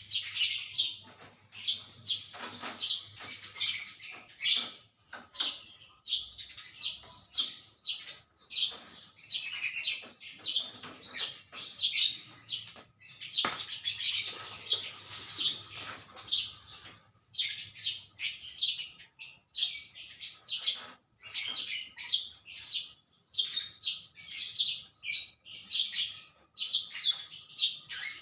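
Small birds chirping continuously, a dense run of short, high calls with only brief gaps.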